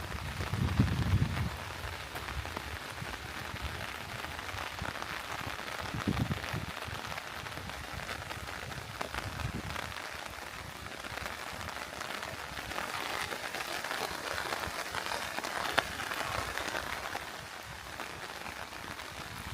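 Steady rain falling, a dense patter of drops. A few low thuds come in the first second or so and again about six seconds in.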